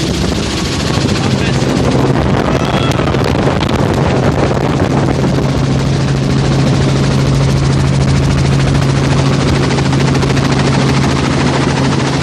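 Helicopter running steadily in flight: a loud, constant drone with a strong low hum.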